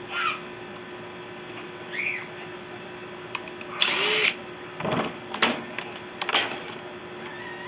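A power drill runs in one short burst of about half a second, its motor winding up and back down, about four seconds in. Several sharp clicks and knocks follow over a faint steady hum.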